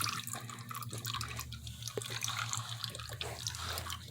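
Liquid dripping drop by drop, with a few clear plinks about two seconds in, over a steady low hum.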